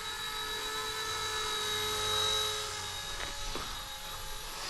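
Small electric RC Era Bell 206 model helicopter in flight: a steady high-pitched whine of its electric motor and rotors, swelling slightly about halfway through.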